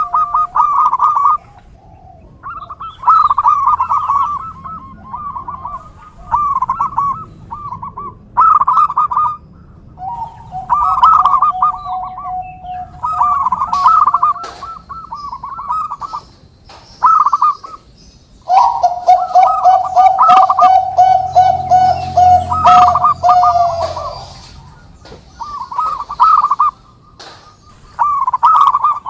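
Zebra dove (perkutut) cooing: repeated rolling coo phrases in bursts of one to two seconds, with longer held notes at times.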